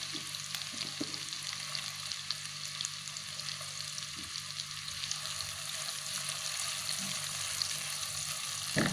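Chopped garlic, shallots and sliced onion sizzling in hot oil in a wok, a steady hiss with fine crackles over a low steady hum. Near the end a spatula stirring them scrapes the pan once, the loudest sound.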